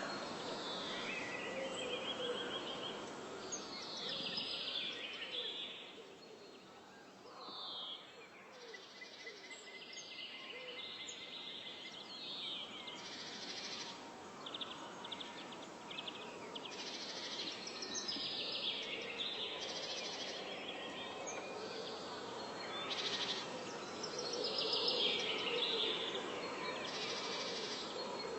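Forest ambience: several birds singing and calling in short whistled and trilled phrases, one after another, over a faint steady insect hum.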